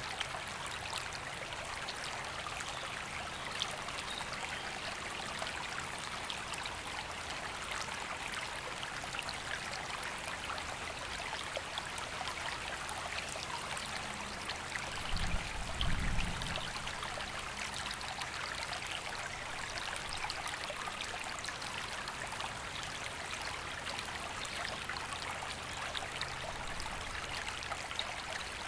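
A river flowing over stones: a steady, even rush of running water. About halfway through there is a brief low rumble lasting a second or so.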